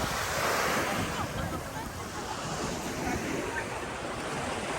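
Small waves washing onto a sandy beach, a steady wash of surf that swells about a second in, with faint voices of beachgoers behind.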